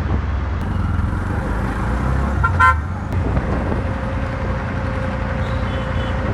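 Road traffic rumbling steadily, with one short, loud horn toot about two and a half seconds in.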